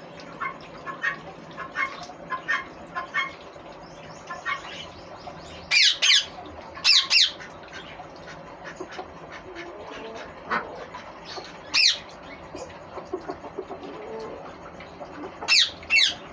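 Green ringneck parakeet (rose-ringed parakeet) giving loud, sharp screeches that fall in pitch, mostly in pairs: two about six seconds in, two about seven seconds in, one near twelve seconds and two near the end. Softer short chirps run between the screeches.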